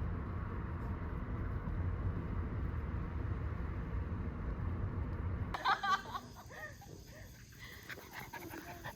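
Steady low road rumble inside a moving car, which cuts off abruptly about five and a half seconds in. A much quieter stretch follows, with a few faint short pitched sounds.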